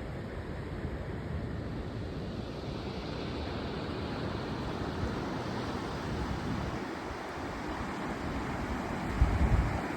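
Ocean surf washing steadily on a beach. Near the end, a short burst of wind buffets the microphone.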